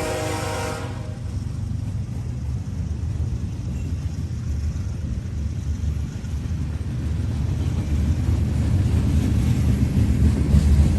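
Diesel locomotive horn sounding and cutting off about a second in, followed by the low rumble of the train, growing louder near the end.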